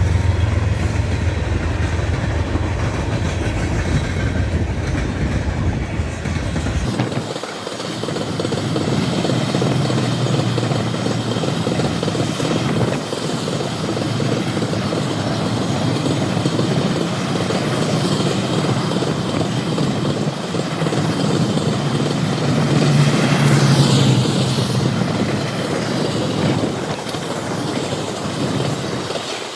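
Freight train rolling past on the rails: a steady rumble with wheel clatter. A deep engine drone is present at first and cuts off abruptly about seven seconds in.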